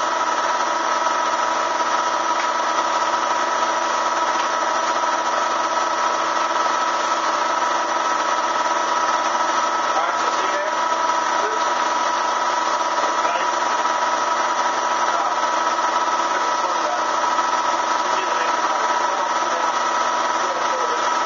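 Bee vacuum's electric motor running steadily, a constant motor whine over a rush of air.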